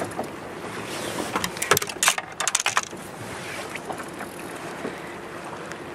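Steady rush of river water, with a quick flurry of sharp clicks and knocks about a second and a half in, lasting about a second.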